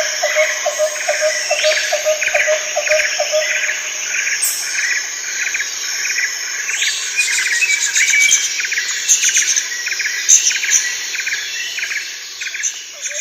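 Jungle ambience: many birds calling and chirping in quick repeated phrases over a steady drone of insects. A lower call repeats about four times a second for the first three seconds or so, and the whole soundscape begins to fade near the end.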